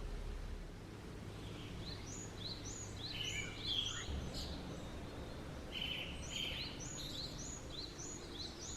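Small birds chirping: runs of quick, high, repeated chirps starting about two seconds in, over a faint steady low background rumble.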